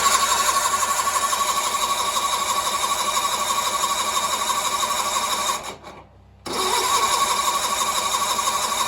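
Starter cranking a Sears Suburban garden tractor's engine without it firing, stopping for about a second past the midpoint and then cranking again. No fuel has reached the fuel filter yet, which the owner takes for why it won't start, perhaps a dry diaphragm in the fuel pump.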